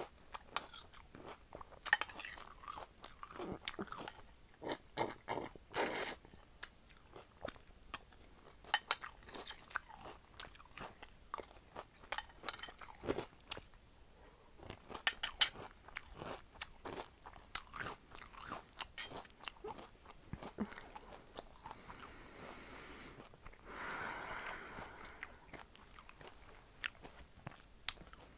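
Close-miked chewing of crunchy cereal in milk, Cinnamon Toast Crunch, with many sharp, irregular crunches. A softer stretch of steadier noise comes about three-quarters of the way through.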